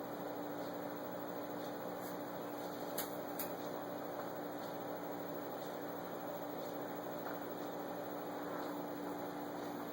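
Steady electrical hum of aquarium equipment, with two faint clicks about three seconds in.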